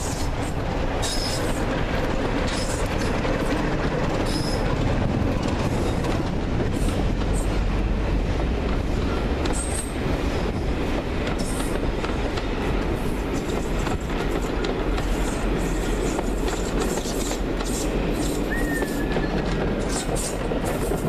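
Diesel-hauled passenger train, a Class 47 and a second diesel at its head, running past close by. The locomotives' engines pass at the start, then a long rake of coaches rolls by steadily, wheels clattering over the rail joints with occasional brief high squeals.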